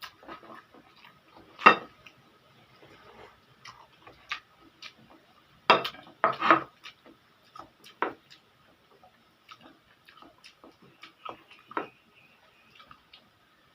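Cutlery clinking and tapping on a plate during a noodle mukbang, in scattered short clicks. The loudest come about two seconds in, twice around six seconds, and near eight and twelve seconds.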